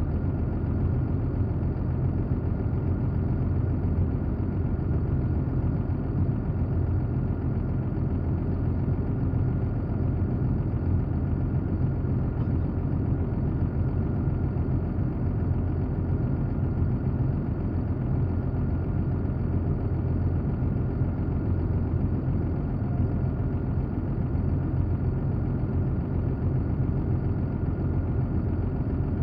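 An engine idling steadily, a low, even rumble that does not change.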